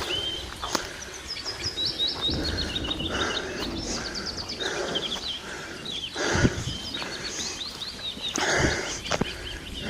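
Small songbirds chirping and trilling in quick repeated notes, with dull thumps and scuffs, the loudest about two-thirds of the way in and again near the end.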